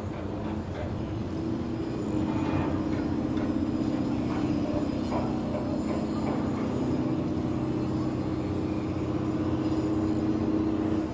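Heavy machinery running with a steady two-tone drone, joined by scattered clanks and knocks. It grows louder over the first two seconds, then holds steady.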